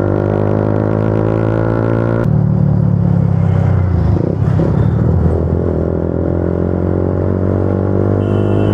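Motorcycle engine running steadily while riding at road speed. The engine note changes about two seconds in, as the throttle is eased or a gear changed, then holds steady again.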